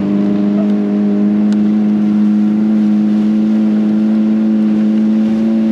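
Boat motor running under way at a steady, fairly high speed: an even engine drone over rushing wind and water.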